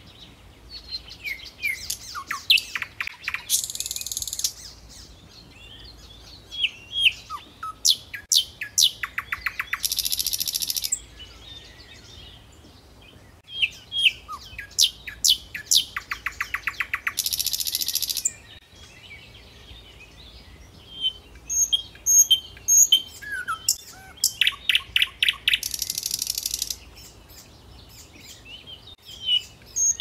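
Birds chirping and calling: a run of quick sharp notes ending in a buzzy trill about a second long comes round four times, with scattered chirps and whistled glides in between.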